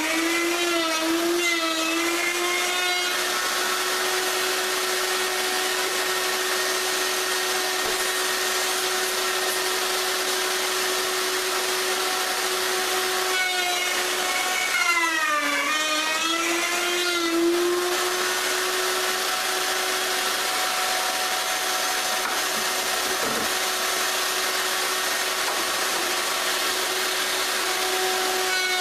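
Router with a 1/4-inch bit running steadily while it cuts an arc in solid maple edging. Its motor pitch sags under load near the start and again about halfway through, then recovers to a steady whine.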